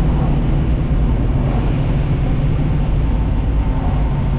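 Small-block Chevy V8 in a 1964 Buick Special running steadily under way, heard from inside the cabin, its low exhaust drone holding an even pitch.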